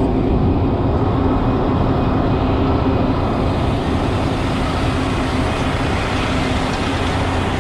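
Log truck running steadily, a constant low engine drone under an even noise of the truck working.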